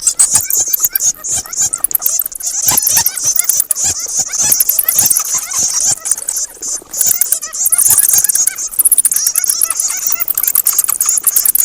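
Many bats chattering and squeaking together without a break, a dense high-pitched twittering laced with quick clicks.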